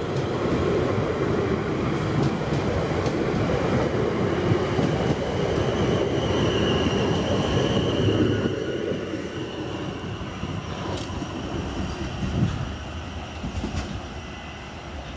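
South West Trains class 444 electric multiple unit departing, its carriages rolling past close by with a loud, dense rumble of wheels on rail and a few sharp clicks. A brief high squeal comes in around the middle, then the sound fades steadily as the train draws away.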